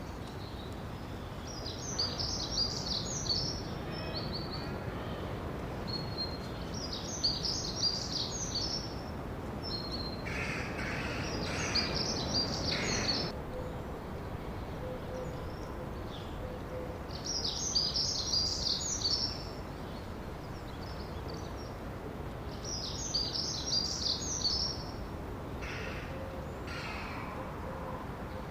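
Birdsong: a bird repeats a short, high twittering phrase about every five to six seconds over a steady outdoor rumble, and a lower call joins about ten to thirteen seconds in.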